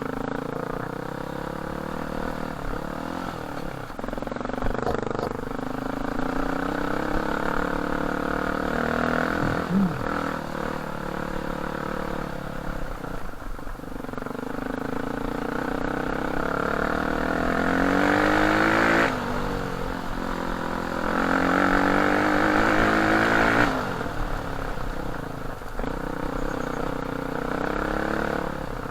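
Off-road dirt bike engine running under way, its pitch rising and falling with the throttle. It revs up hard twice in the second half, the louder of the two climbs ending abruptly.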